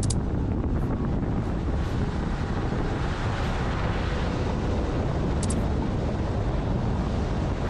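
Fishing boat under way through waves: steady engine and water noise with wind buffeting the microphone. Two brief high ticks, one right at the start and one about five and a half seconds in.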